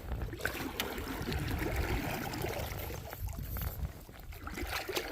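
River water splashing and trickling around a canoe moving down a fast current, over a low rumble, with a couple of light knocks under a second in.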